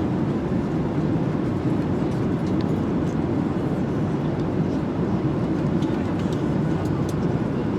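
Passenger airliner cabin noise: a steady, unbroken low rumble from the engines and airflow.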